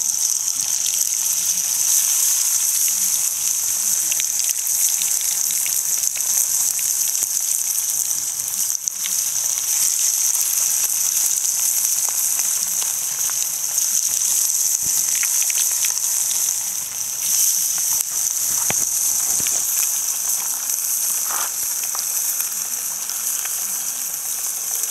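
Breaded catfish pieces deep-frying in hot oil in a cast-iron skillet: a loud, steady sizzling hiss.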